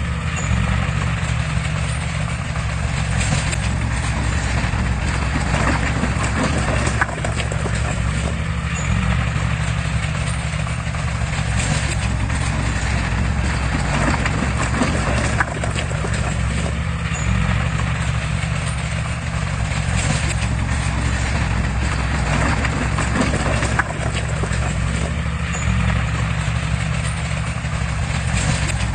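Crawler bulldozer's diesel engine running steadily under load, with irregular metallic clanking from its steel tracks.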